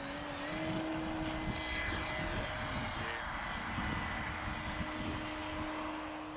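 Radio-controlled model aeroplane's motor and propeller running up to power with a rising whine, then holding a steady whine with a rushing airflow.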